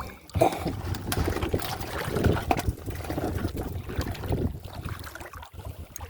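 Water splashing and sloshing, with many small clicks and knocks.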